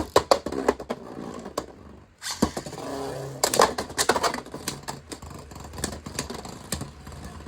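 Two Beyblade spinning tops, a 3D printed one and a Beyblade X bey with a metal layer, whirring in a plastic stadium and clacking against each other again and again, with a dense run of hits a few seconds in.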